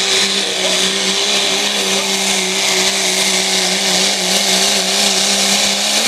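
Dodge pickup's engine held at full throttle while pulling the weighted sled, a loud, steady high-rpm drone that holds one pitch, dropping off sharply at the very end.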